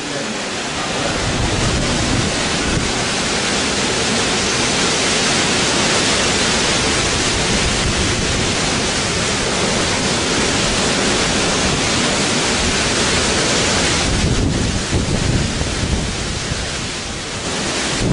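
Heavy rain and gusting wind in a thunderstorm: a dense, steady hiss that eases about fourteen seconds in, with a low rumble building near the end.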